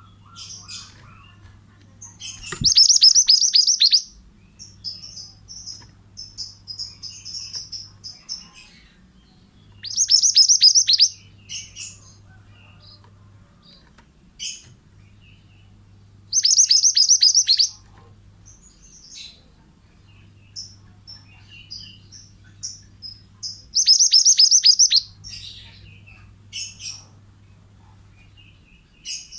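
A mantenan songbird singing. About every seven seconds it gives a loud, high phrase of rapid downward-sweeping notes lasting just over a second, four times in all, with softer scattered chirps in between.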